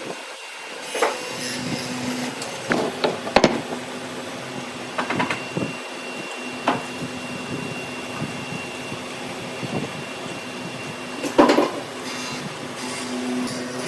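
A workshop machine hums steadily while wood is worked, with several sharp knocks and short scraping strokes; the loudest come about three seconds in and again near the end.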